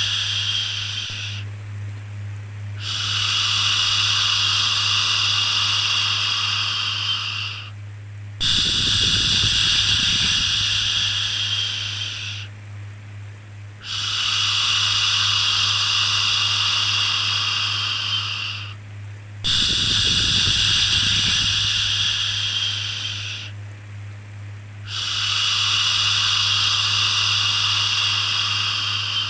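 A shushing 'shhh' repeated in long, even strokes, each lasting four to five seconds with a brief pause between them, five in all. A steady low hum runs underneath.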